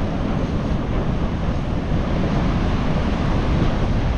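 Strong wind buffeting the microphone, a steady rumbling flutter, with surf breaking on the beach behind it.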